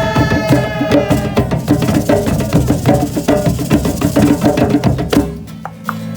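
Live band music driven by drums and percussion, with a held note fading in the first second; a little after five seconds the drumming stops, leaving a steady low chord ringing on.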